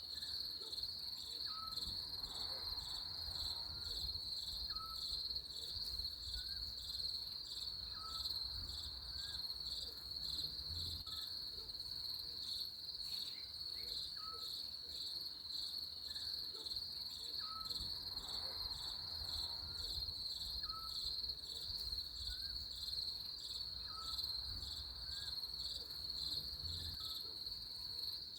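Steady, pulsing trill of a cricket-like insect chorus. Faint short chirps recur about every second and a half behind it.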